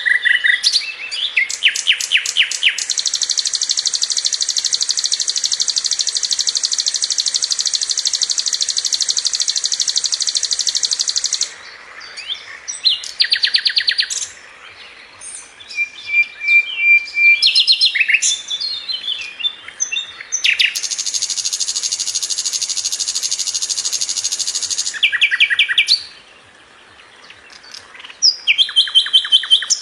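Sikatan londo (a flycatcher) singing: a long, very rapid, high rolling trill that runs for about eight seconds. A shorter trill of about four seconds follows later, and short quick chirps and note series come in between.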